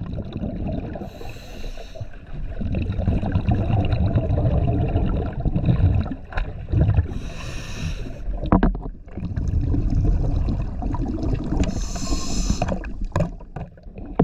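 Diver breathing underwater through a regulator: three bubbling exhalation bursts, about five seconds apart, over a steady low rumble of water on the microphone.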